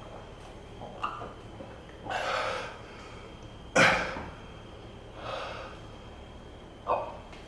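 A man breathing hard in separate sharp exhales and gasps every second or so, the loudest a sudden burst about halfway through, as he reels from the burn of chilli extract.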